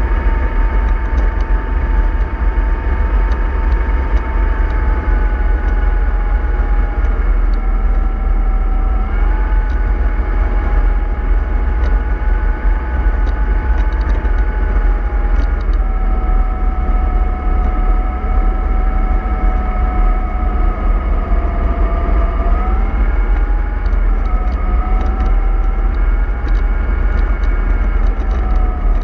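Bus drivetrain running with a deep, steady rumble and a whine. The whine sinks slowly in pitch and jumps back up about a third of the way in and again near the end.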